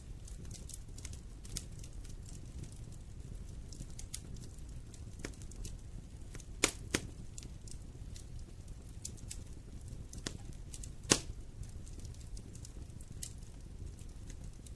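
Wood fire crackling in a fireplace: a steady low rumble under scattered sharp crackles, with two loud pops close together about seven seconds in and another about eleven seconds in.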